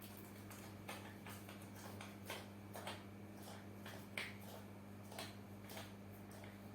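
Irregular light clicks and taps, about a dozen, the sharpest about four seconds in, over a steady low hum.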